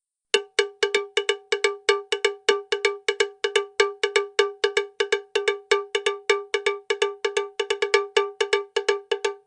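A rapid run of cowbell-like percussion strikes, about four to five a second, all at the same pitch and each dying away quickly, with nothing between them.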